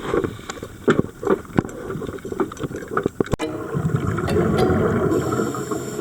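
Underwater water noise: scattered sharp clicks and knocks, then from about three and a half seconds in a rising rush of bubbling, typical of a scuba diver's exhaled bubbles.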